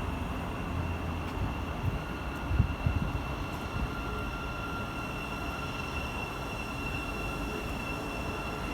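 Train running at the platform with a low rumble, a few thumps about three seconds in, and a steady high whine.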